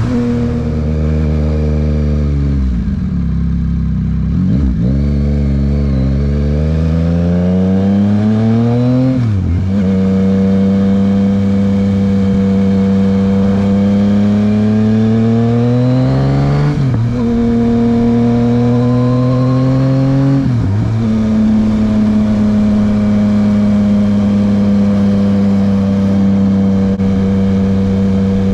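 2023 Yamaha MT-09's three-cylinder engine through a Dominator HP3 aftermarket exhaust, riding: the revs fall over the first few seconds, then climb through the gears with three upshifts, each a sudden drop in pitch, before holding a steady cruise.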